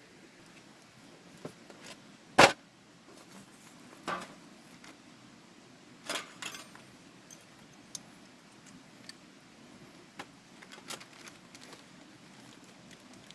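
Scattered knocks and clicks of objects being handled, the loudest a single sharp knock about two and a half seconds in, over a faint steady rushing hiss.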